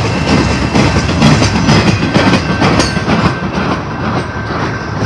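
Railroad cars rolling past close by: a loud, steady rumble of wheels on rail with repeated clacks as the wheels cross rail joints.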